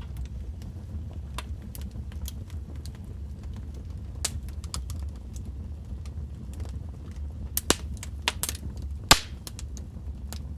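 Fire in a fireplace crackling: a steady low rumble of the flames with scattered sharp pops and snaps. The loudest pops cluster in the second half.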